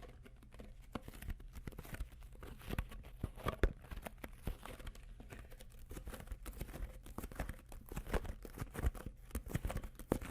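The label on a plastic water bottle being crinkled and rubbed by fingers: a steady run of irregular crackles and clicks.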